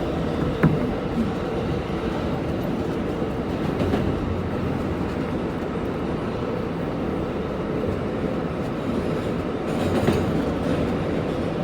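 Subway train running at speed, heard from inside the car: a steady rumble of wheels on rail, with one sharp click a little over half a second in.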